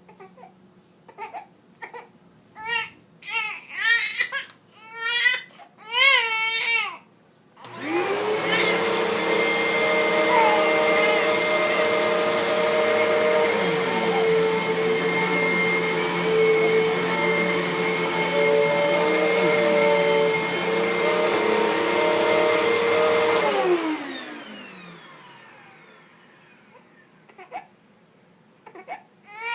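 A young baby crying in short wails that grow louder, then a vacuum cleaner switches on about eight seconds in and runs steadily with a motor whine, the crying no longer heard under it. About fifteen seconds later the vacuum is switched off and its motor winds down over a couple of seconds, and a few soft baby cries come near the end.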